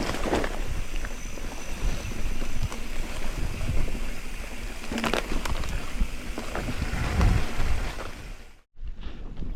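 Mountain bike rolling down a rough dirt trail: tyres crunching over ground and rocks, with the frame and parts rattling now and then and wind buffeting the microphone. The sound cuts out briefly near the end.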